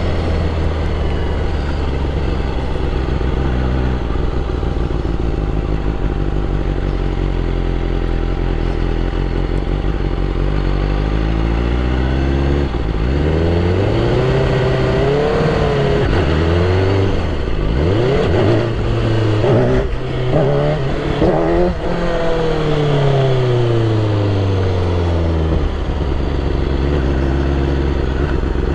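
BMW S1000RR's inline-four engine runs steadily at low revs. About twelve seconds in, the revs climb, then blip up and down sharply several times, and fall away smoothly before settling back to a steady low note near the end.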